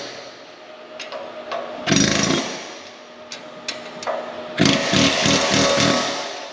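A power tool running in two bursts, a short one about two seconds in and a longer one from about halfway, with a few sharp clicks in between.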